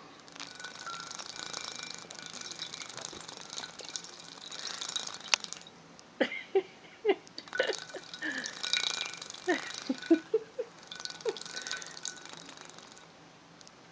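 Baby birds bathing, fluttering their wings in water: several bursts of splashing with short plops and drips in between, busiest in the middle.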